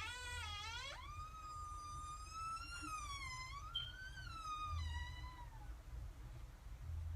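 A long, high, eerie wail that rises in the first second, then wavers up and down for about five seconds before fading out.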